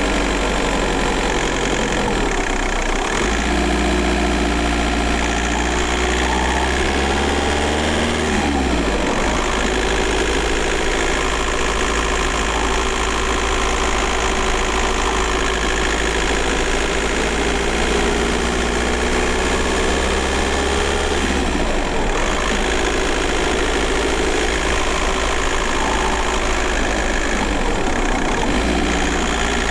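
Volkswagen 1.9 TDI four-cylinder turbodiesel (AJM) running, heard from inside the car, its pitch shifting several times with a clear drop about eight seconds in.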